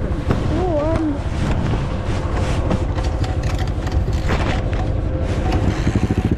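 Small off-road vehicle engine running with a fast, even low pulse as the ride sets off.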